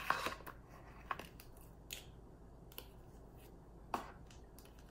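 Metal fork clicking and scraping against a measuring spoon as butter is scraped out of it, with the ring of measuring spoons clinking. A quick cluster of clicks at the start, then single light clicks about once a second.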